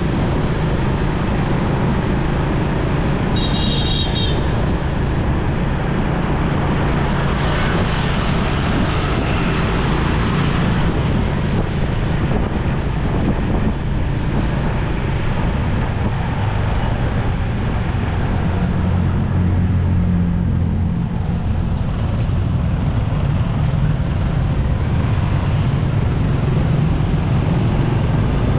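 Motorcycle riding through city traffic: steady engine and road noise. A short high-pitched tone sounds about four seconds in, and a deeper hum swells for a couple of seconds about two-thirds of the way through.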